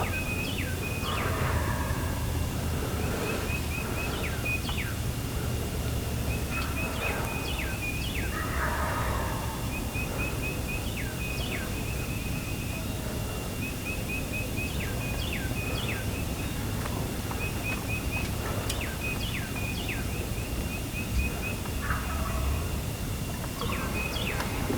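Wild turkeys calling in the field: series of short hen yelps repeated again and again, with a few louder gobbles mixed in, over a low steady rumble.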